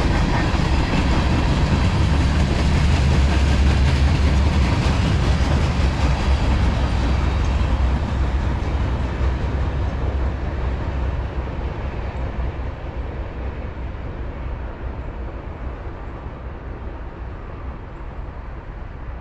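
CSX manifest freight train's cars rolling past on the rails, a heavy rumble of wheels on track. The sound fades over the second half as the train moves away.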